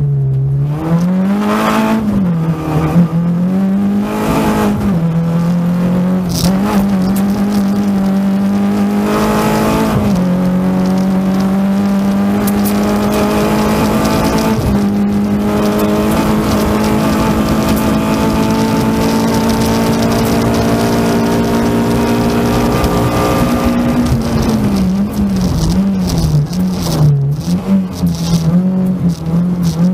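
Renault Clio 16V rally car's 1.8-litre 16-valve four-cylinder engine, heard from inside the stripped cabin, driven hard: the revs rise and fall with gear changes over the first ten seconds, hold high and steady for about fourteen seconds with a short break near the middle, then swing rapidly up and down in the last six seconds.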